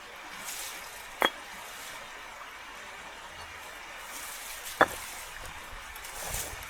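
Two sharp knocks, about three and a half seconds apart, each with a brief ring, over a faint steady background.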